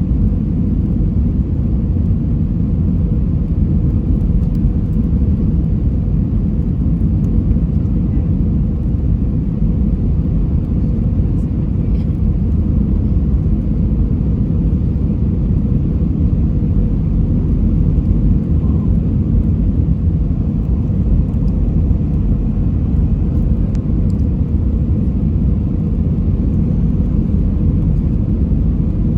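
Steady low rumble of an Airbus A320-200's engines and airflow heard from inside the passenger cabin on approach.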